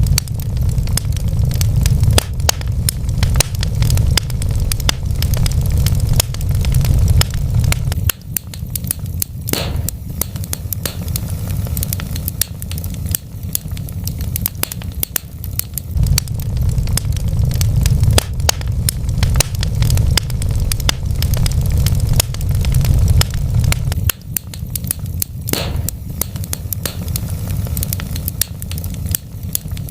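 Wood fire burning in a fireplace, crackling with frequent small pops over a low rumble of the flames that swells and eases off.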